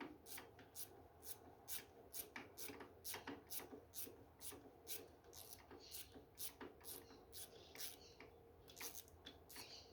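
Faint, irregular small metallic clicks and rubbing, about two to four a second, from hand tools and parts being handled while a motorcycle clutch is taken apart.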